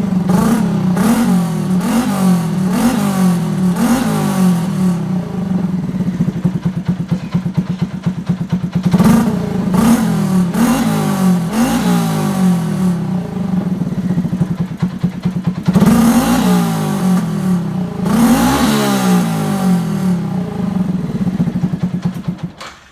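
Yamaha MX King 150's single-cylinder four-stroke engine through a road-race style aftermarket exhaust, idling with repeated quick throttle blips about once a second, then two longer, higher revs in the second half. The sound dies away just before the end.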